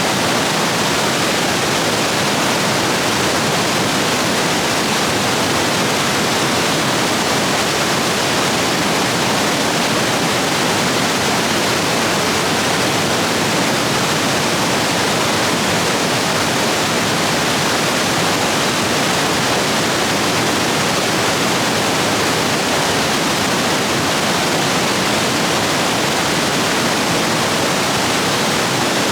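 Stream rapids rushing steadily, swollen after heavy rain, a dense even roar of white water.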